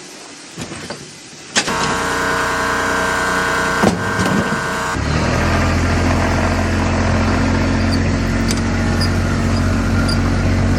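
A motor vehicle's engine being started: a click, a steady whine for about three seconds, then a deeper steady running note from about five seconds in.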